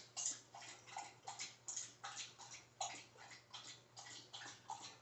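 Faint trickle of homebrew running from a siphon tube into a vessel during racking: irregular small splashes and drips, a few each second.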